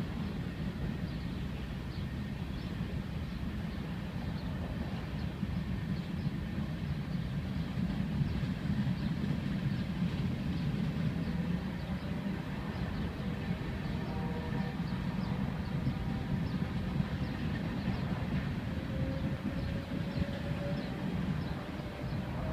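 Freight train rolling past, a steady low rumble of wheels on rail with faint clicking. Thin squealing tones join in after about fourteen seconds.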